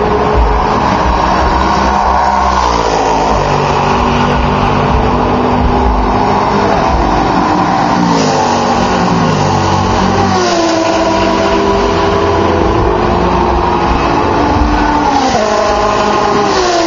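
Sports-prototype and GT race cars going by flat out on a long straight. Several pass one after another, each engine note dropping sharply in pitch as the car goes past, over the continuous sound of other cars still running.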